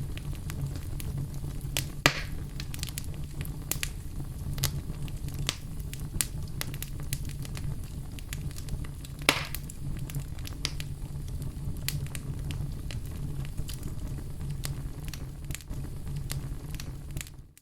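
Wood fire in a fireplace crackling over a low, steady rumble of flames, with frequent small snaps and two louder pops, about two seconds in and about nine seconds in. The sound fades out abruptly at the very end.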